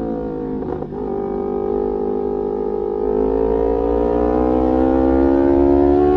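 Sport motorcycle engine and exhaust under load, one steady pitched note that sags slightly with a brief dip about a second in, then climbs slowly in pitch and grows louder as the bike accelerates.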